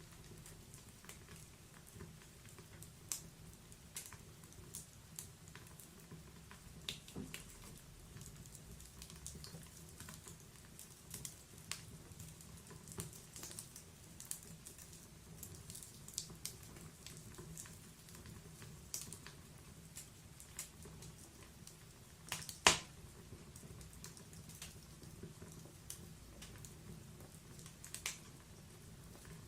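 Wood fire crackling in a fireplace: scattered small pops and snaps at an irregular pace over a faint low rumble, with one much louder pop about three-quarters of the way through.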